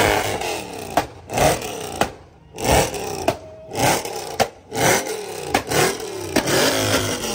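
White Mercedes C-Class sedan's engine revved in quick blips while standing, about once a second. Each rev climbs and falls straight back, with a sharp crack at many of them.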